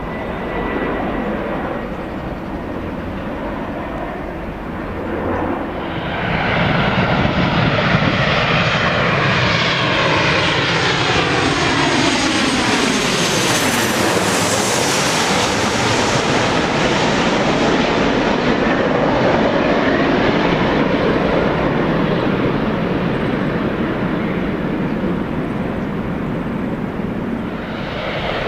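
Jet airliner on landing approach passing close by: engine noise swells about six seconds in, sweeps through a phasing whoosh as it passes, loudest around the middle, then stays loud as it moves on.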